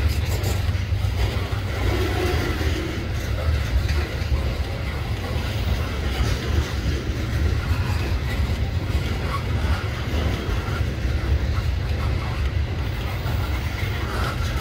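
Loaded ethanol tank cars of a freight train rolling past at close range: a steady, loud low rumble of steel wheels on rail.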